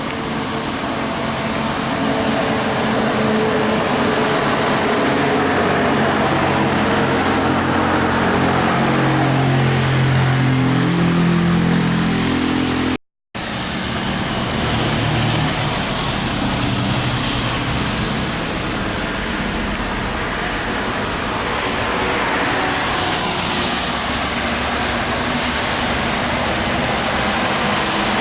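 Heavy truck diesel engines and tyre noise from traffic passing on an expressway, with one engine's note rising as it accelerates about ten seconds in. Later, tyre hiss swells as more vehicles go by, with a sound dropout of a fraction of a second near the middle.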